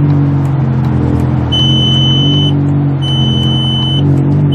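A Volkswagen Golf Mk4's badly damaged, smoking engine running steadily under load, heard from inside the cabin. A high electronic warning beep sounds twice, each about a second long with a short gap, and a third begins at the end.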